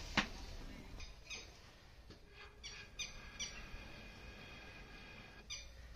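Birds calling: several short, falling chirps, with a sharp click just after the start.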